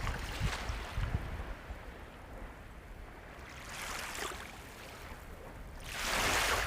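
Sea waves washing on a shore, the surf rising and falling, with one wave breaking loudest near the end.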